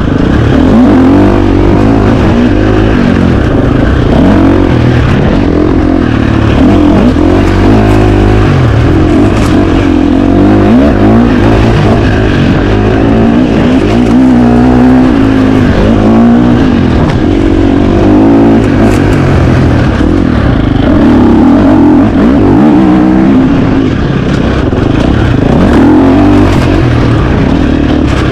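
KTM 350 XC-F single-cylinder four-stroke dirt bike engine being ridden hard off-road, its revs rising and falling constantly with throttle and gear changes.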